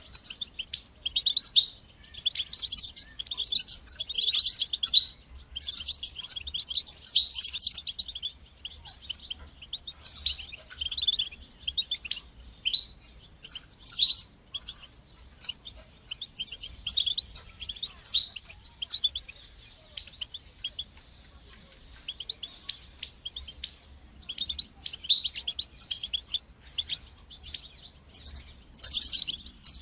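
European goldfinch singing: rapid twittering phrases of high chirps and trills, in bursts with short pauses and a sparser stretch past the middle.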